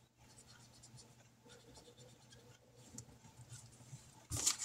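Pen scratching on paper in short, faint strokes, with a louder scuff of paper being handled near the end.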